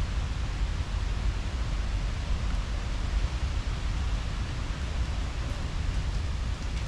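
Steady rushing outdoor noise with a constant, fluttering low rumble underneath, and no distinct events.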